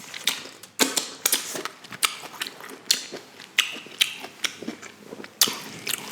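Close-miked eating sounds while eating lobster tail: a run of irregular sharp clicks and crackles.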